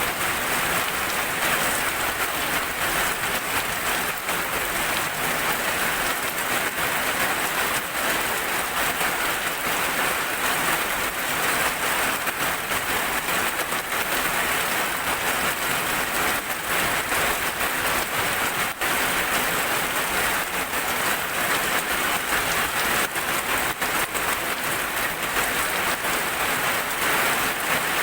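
Steady rain, a dense, even patter of many drops falling on a surface.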